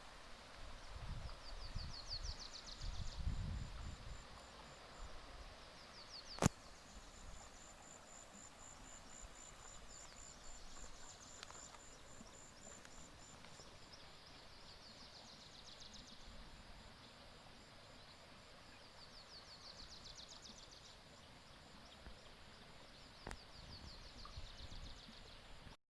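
Forest ambience: insects chirping high, with repeated short descending trills and a long run of fast even pulses, over a faint steady hiss. A sharp click sounds once about six and a half seconds in.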